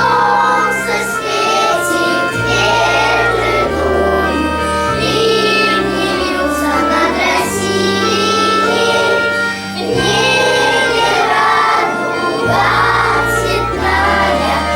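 Children's choir singing over a backing track, with a bass line moving in long held notes.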